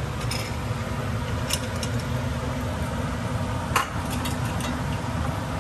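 Steady low kitchen hum and noise, with two sharp clinks of a utensil against a pot about one and a half and four seconds in as cooked rice is taken out.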